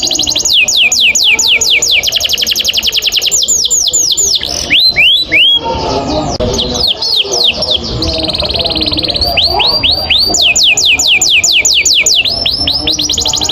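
Domestic canary singing a long rolling trill: rapid, evenly repeated high notes that each sweep downward. About four seconds in, the roll breaks into a few slower, separate notes and a short pause, then picks up again and runs on fast.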